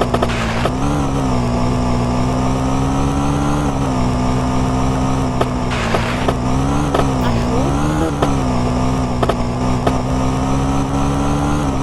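Small moped engine running at a fairly steady pitch, dipping and picking up briefly a few times, with scattered knocks and rattles over it.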